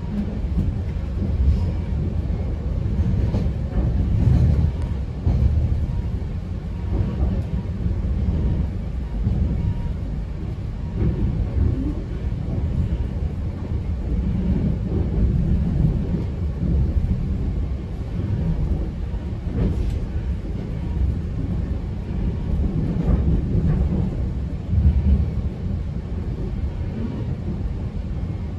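GO Transit bilevel passenger coach rolling along at speed: a steady low rumble of steel wheels on the track that swells and eases, with a few faint clicks from rail joints.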